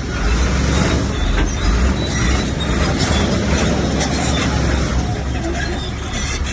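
Bulldozer's diesel engine running hard under load, with a steady low rumble, and the clatter of its steel tracks and pushed rock throughout.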